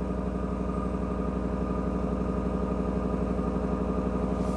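2022 Ram 1500's 5.7-litre Hemi V8 running at a raised cold-start fast idle with a steady, even exhaust pulse, minutes after starting at −24 °C without the block heater plugged in.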